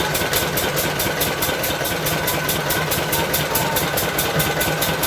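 Engine-driven palm fruit mill running steadily as it grinds boiled palm fruit, an even machine hum with a regular beat of about five or six pulses a second.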